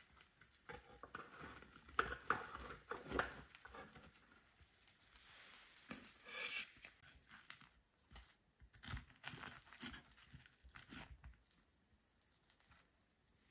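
Faint, irregular rustling and crinkling, like plastic or paper being handled, with scattered light knocks.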